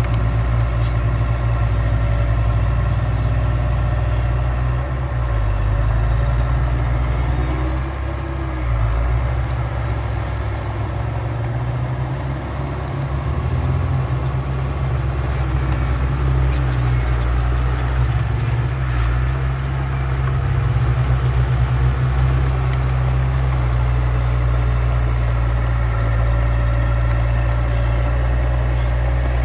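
Heavy diesel engine of earthmoving machinery running under load with a steady low drone that dips slightly in loudness a couple of times, with faint clicks here and there.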